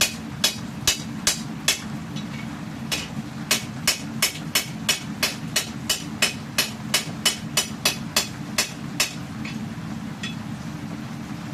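Small sledgehammer striking hot steel on an anvil in quick blows, about three a second, forging the bevel and curve of a katana blade. The strikes pause briefly near the start, resume, then thin out and stop about three-quarters of the way through, over a steady low hum.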